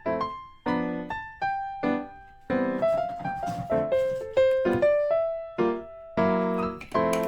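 Background music: gentle piano, a melody over struck chords.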